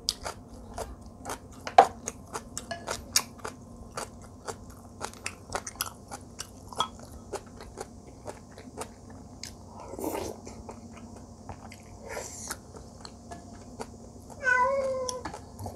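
Close-miked eating: wet mouth clicks and chewing with a few sharper crunches, several a second. Near the end comes a short high-pitched call that slides slightly down.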